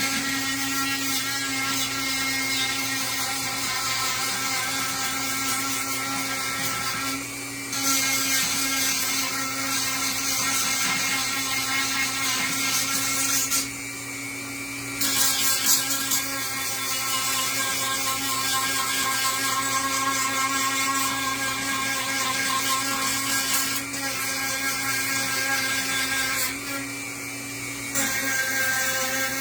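High-speed handheld power tool working wood to lower the surface of a carved sign: a steady motor whine over the hiss of cutting. It eases off briefly three times, about a quarter, halfway and near the end of the way through, when the tool lightens on the wood.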